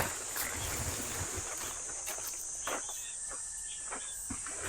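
Steady high-pitched insect chorus, with scattered light ticks and taps over it.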